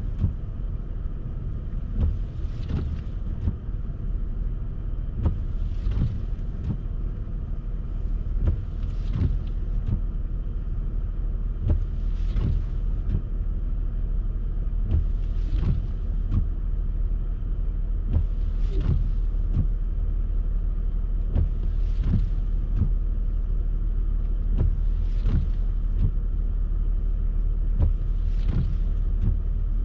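Car driving in snow, heard from inside: a steady low road-and-engine rumble, with the windshield wipers sweeping with a brief swish about every three seconds.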